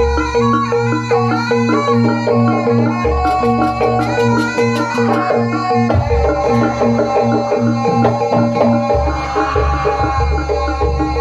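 Jaranan accompaniment music: a Javanese percussion ensemble of drums with tuned gongs and metallophones playing a steady, repeating pattern.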